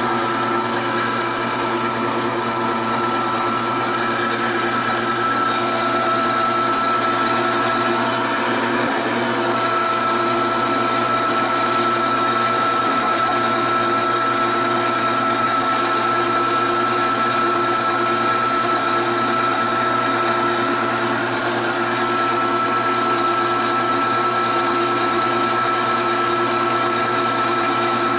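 Power bandsaw running steadily while cutting through bar stock, the blade working through the metal with a continuous, even hum.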